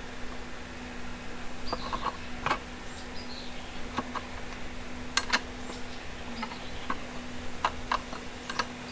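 Irregular light clicks and taps, with a few short falling chirps and a steady low hum underneath.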